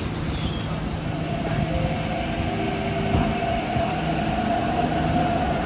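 MTR East Rail Line electric train pulling out: steady running rumble, with a traction-motor whine that comes in about one and a half seconds in and holds.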